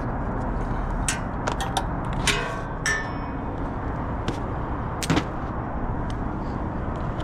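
A steady low engine rumble with a series of sharp metallic clanks and clicks over it, about eight in all. One clank about three seconds in rings briefly, and the loudest comes about five seconds in.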